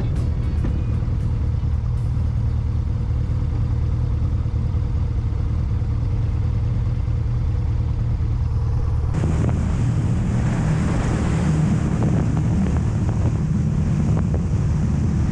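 Motorcycle on the move: a steady low engine drone with wind noise on the microphone. About nine seconds in, the wind rush suddenly gets louder.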